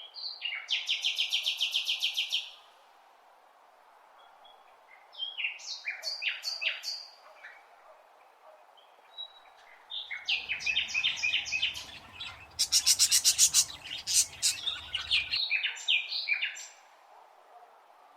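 Birds calling in quick runs of short, repeated high notes, about nine a second in the first run, in three bouts with pauses between. A low hum sits under the last bout for about five seconds.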